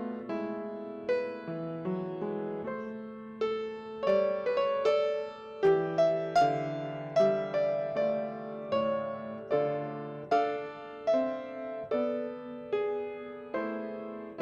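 Solo piano playing a slow piece, chords and single notes struck about once a second, each left to ring and fade before the next.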